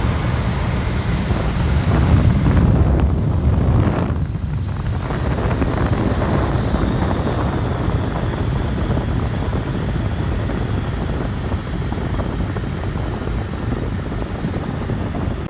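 Boeing Stearman biplane's radial engine and propeller running steadily, heard from the open cockpit with wind rushing over the microphone. The sound cuts off suddenly at the end.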